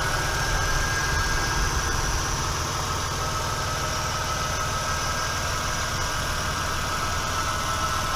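Toyota Tacoma engine idling steadily, with a thin steady high whine running alongside the low engine note.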